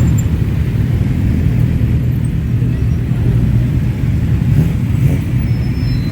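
Many motorcycle engines running together, a continuous deep rumble.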